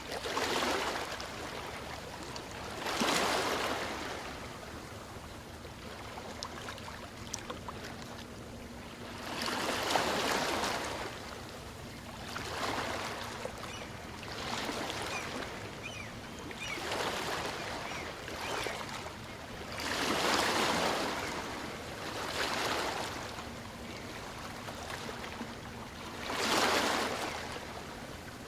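Small waves on a calm sea breaking and washing up the beach, each one swelling and falling away every few seconds, over a steady background hiss of surf.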